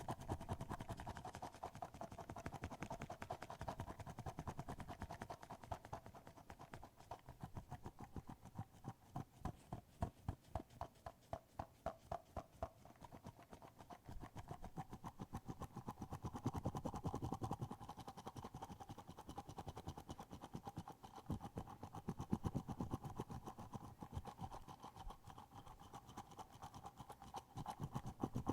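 Rapid, close-miked tapping and clicking on an object, played as an ASMR trigger, with a steady faint hum underneath.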